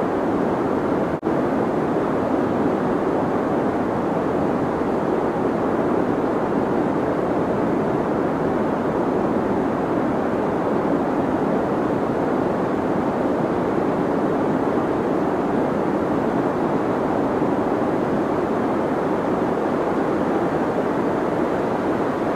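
Deep white noise: a steady, even rushing hiss weighted toward the low and middle range, broken by a very brief dropout about a second in.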